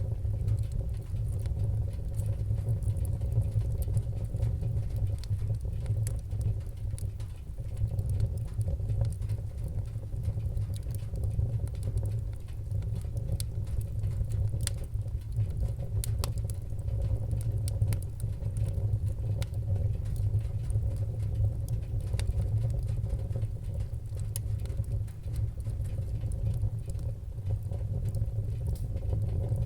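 Fireplace fire burning: a steady low rumble with sparse, sharp crackles and pops every few seconds.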